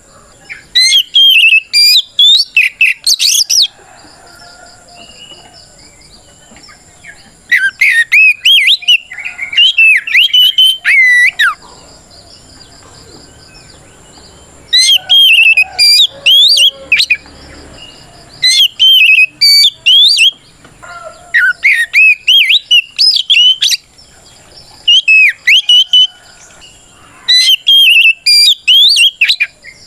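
Oriental magpie-robin (kacer) singing loud, clear fighting song that calls out a rival: bursts of rapid whistled notes sweeping up and down, repeated about seven times with short pauses of one to three seconds between phrases.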